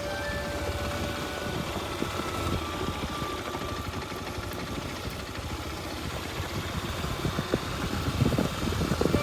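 Kawasaki Super Sherpa's 250 cc single-cylinder four-stroke engine running at low revs, getting louder near the end.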